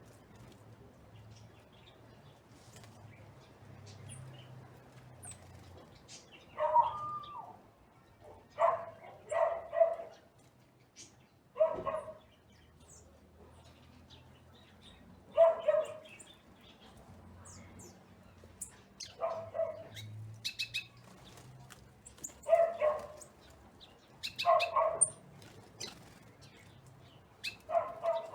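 A dog barking in short bouts of one or two barks every few seconds, starting about six seconds in, over faint high chirps of small birds.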